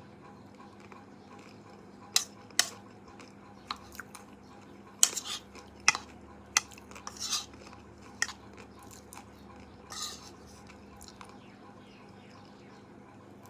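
Utensils clinking and knocking against dishes: a dozen or so sharp, irregular clicks over several seconds, several with a short ring, then quiet again, over a faint steady hum.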